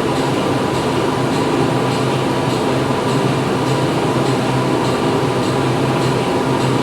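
Factory machinery running steadily: a constant mechanical hum with a faint, regular clicking about twice a second.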